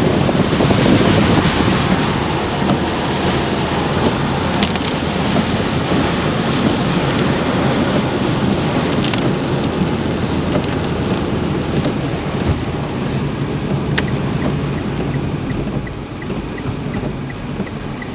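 A car driving on a rain-soaked, flooded road, with a loud, steady rush of rain and wet road noise. Near the end the rush eases a little, and a light, even ticking of about two ticks a second starts.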